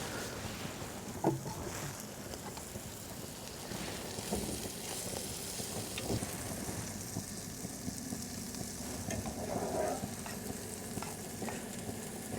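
Steak sizzling in a hot pan on a portable gas stove, a steady frying hiss with a few small crackles and pops.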